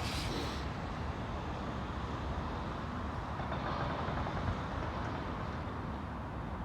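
Steady low rumble of distant engine and traffic noise, with a short hiss right at the start.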